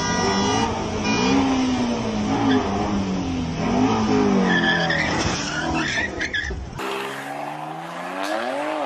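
Car engine revving up and down hard with tyre squeal, then after an abrupt cut about seven seconds in, another car engine rising in pitch as it accelerates.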